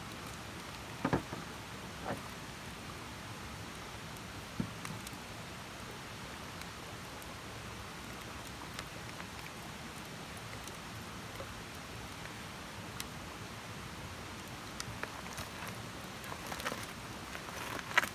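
Wood campfire burning with a steady hiss and scattered sharp crackles, a handful of pops about a second, two and four and a half seconds in and a denser run of crackles near the end.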